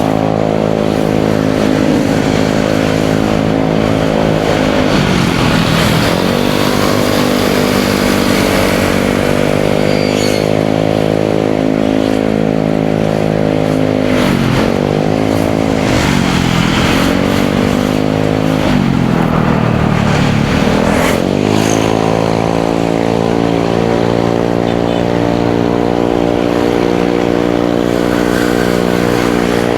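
Motorcycle engine running on the road. The revs drop and pick up again about five seconds in, twice around the middle and once more later, over steady road and wind noise.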